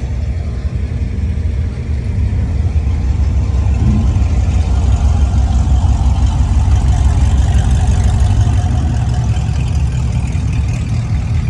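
Car engine running with a low, steady rumble, growing louder a few seconds in and holding there.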